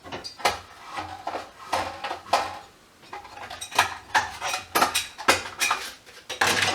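Hard parts and tools clinking and clattering on a workbench as a variable frequency drive is taken apart: an uneven run of about a dozen sharp knocks and short rattles.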